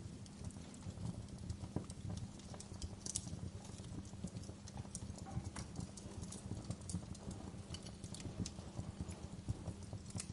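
Fireplace wood fire burning: a steady low rumble of flame with frequent sharp crackles and pops from the logs.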